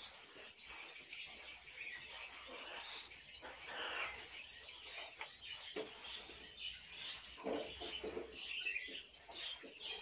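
Small birds chirping in a busy, irregular chatter of quick high chirps, with a soft rustle of hands kneading a crumbly egg-food mash.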